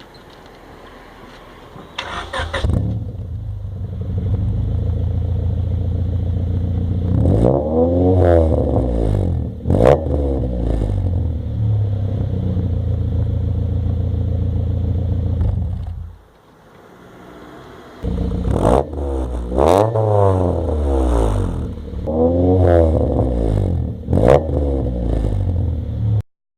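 1998 Honda Civic engine running through its exhaust with the muffler baffle removed: it starts up about two seconds in, idles, and is revved up and down several times, with a brief drop in level past the middle before the revving resumes. The sound stops suddenly near the end.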